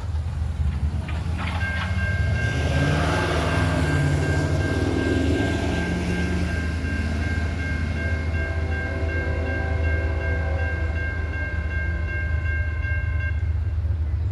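Diesel locomotive running with a heavy engine rumble while its air horn sounds one long, steady chord, starting about a second and a half in and cutting off shortly before the end.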